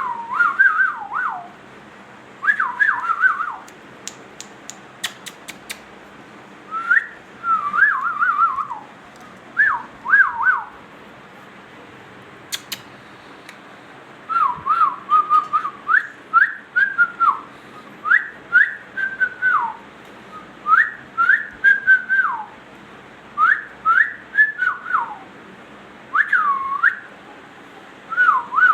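Ringneck parrot whistling a tune in short repeated phrases of gliding notes, with pauses of a second or two between phrases. A few faint clicks fall between the phrases.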